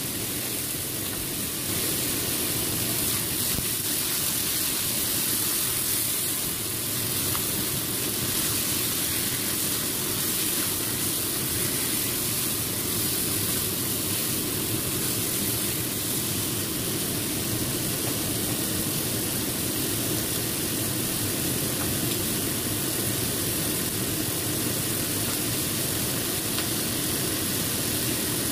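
Chicken wings frying in a hot wok: a steady, even sizzle.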